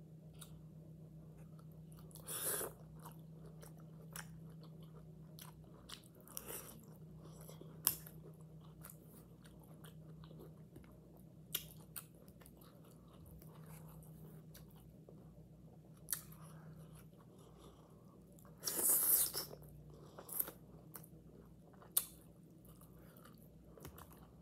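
A person chewing and biting food close to the microphone: mukbang eating sounds, with scattered sharp clicks and a few louder wet bursts, the loudest about 19 seconds in. A steady low hum runs underneath.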